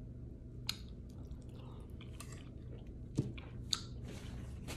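Quiet chewing and mouth sounds of a person eating soft ravioli from a fork, with sharp clicks about a second in and twice more near the end, over a low steady hum.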